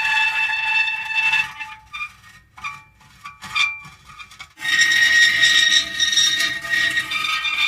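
Metal creaking: a long grating creak with steady high squealing tones that breaks off about a second and a half in. A few short squeaks follow, then a second long creak starts about four and a half seconds in.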